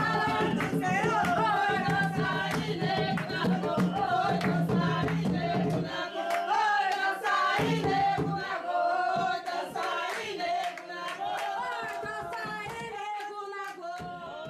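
Jongo being sung by a group of voices over beating hand drums. The deep drum part stops about six seconds in while the singing and sharper strokes go on, then the whole fades toward the end.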